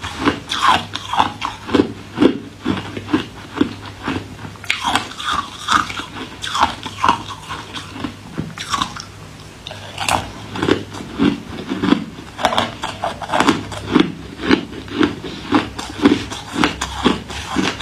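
Ice being bitten and chewed close to the microphone: rapid, irregular crunches, several a second, easing off briefly in the middle.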